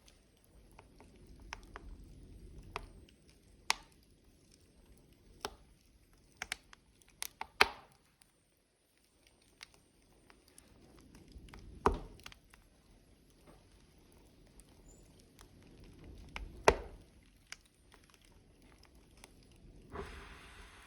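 Burning logs crackling: irregular sharp pops and snaps, a few much louder than the rest, over a low rumble of flames that swells and fades.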